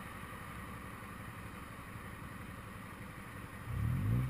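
Steady vehicle road noise and engine hum, with an engine rising in pitch and growing louder near the end.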